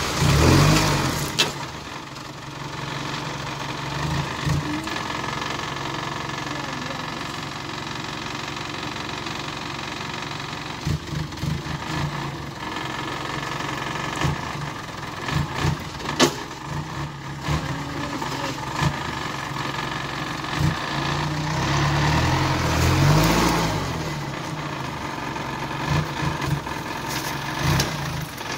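Vehicle engine idling steadily, revved up briefly right at the start and again about three-quarters of the way through, with scattered knocks and clatters on top.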